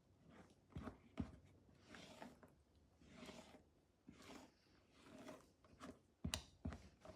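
Faint kitchen handling sounds as sliced strawberries are laid onto the cake's creamy topping: soft brushing and scraping noises about once a second, with two pairs of sharp light taps, one about a second in and one near the end.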